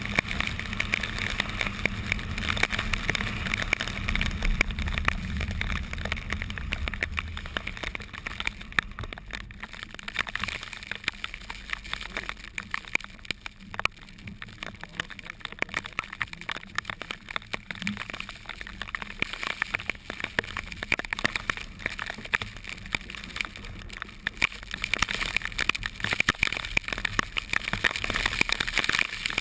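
Rain striking a vehicle, many irregular ticks of drops over the low road and engine noise of the car.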